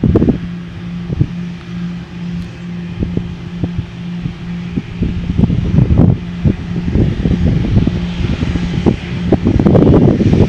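Jet engines of an Airbus A319 running with a steady low hum, under heavy wind buffeting on the microphone that grows louder near the end.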